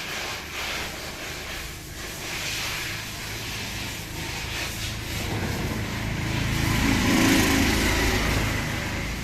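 A motor vehicle engine running with a steady low hum. It grows louder to a peak about seven seconds in, then eases off.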